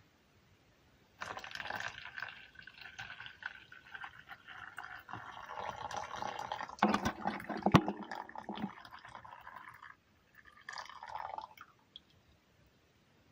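Liquid gurgling and splashing for about eight seconds, with many small clicks through it. A shorter burst follows after a brief pause.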